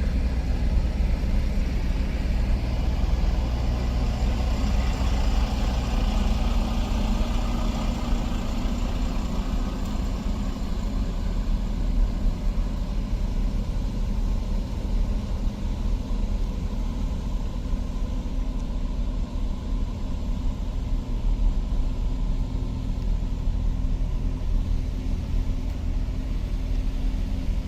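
Motor vehicle engine running with a steady low rumble that holds an even pitch throughout.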